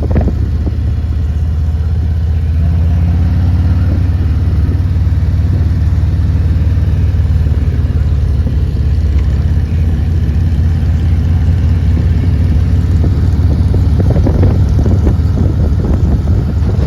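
Motorcycle engine running steadily at cruising speed on the road, a strong low drone that stays even throughout.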